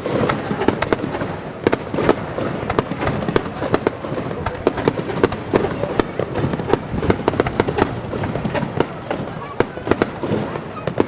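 Fireworks display: a rapid, unbroken barrage of sharp bangs and crackles, several a second.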